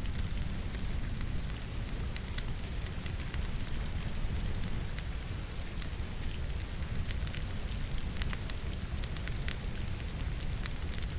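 Wood burning in a fireplace, crackling with many scattered sharp pops, over a steady background of falling rain with a low rumble.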